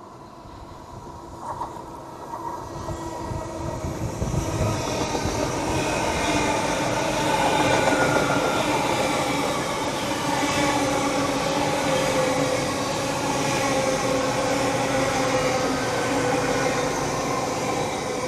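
Diesel train running. The sound builds over the first few seconds, then holds steady, with the engine's note drifting slowly in pitch.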